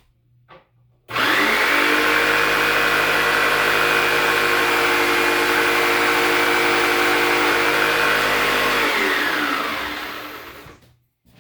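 Electric power tool switched on, running at a steady speed for about eight seconds while cutting a piece of square wooden dowel, then switched off and winding down with a falling pitch.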